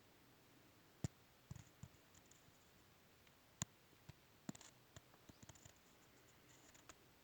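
Footsteps on dry forest litter: a scattering of irregular sharp clicks and soft crackles, like twigs snapping and leaves crunching underfoot, the loudest snaps about a second in and past the three-second mark.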